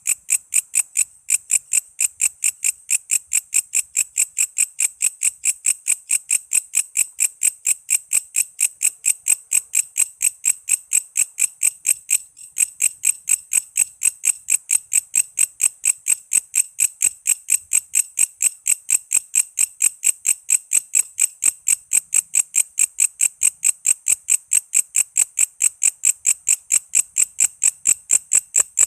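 Walang kece insect calling: a steady, even train of short, high chirps, about four a second, with a brief break about twelve seconds in.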